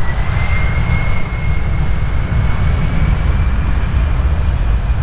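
Large airplane's engines running with a high whine that rises slowly and then holds, over a deep rumble.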